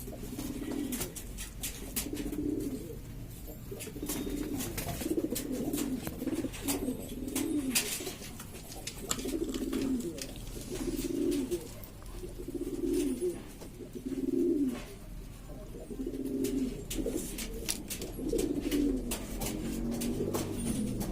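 Several domestic pigeons cooing over one another in repeated low, rolling coos, about one a second, with scattered light clicks among them.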